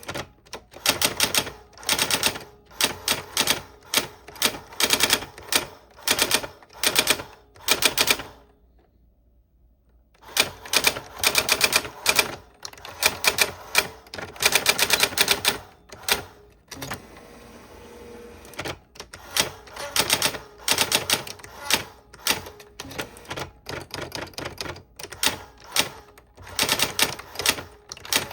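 Old typewriter being typed on: quick runs of sharp key strikes separated by short gaps, with a pause of about two seconds a third of the way in before the typing resumes.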